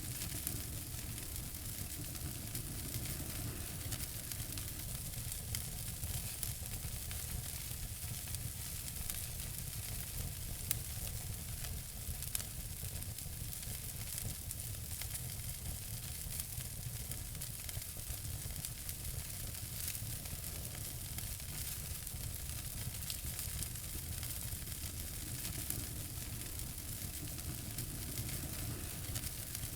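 Wood fire burning in a fireplace: a steady hiss of flames with many small crackles and an occasional louder pop.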